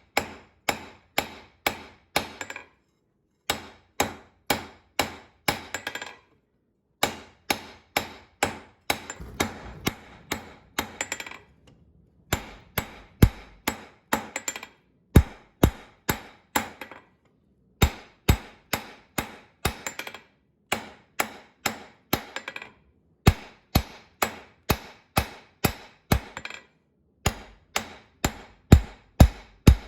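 Hammer blows on hot steel over an anvil while forging, a steady beat of about two to three strikes a second in runs broken by brief silences.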